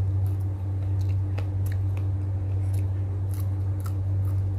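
Close-up chewing of a raw red chili pepper: irregular crisp crunching clicks, several a second, over a steady low hum.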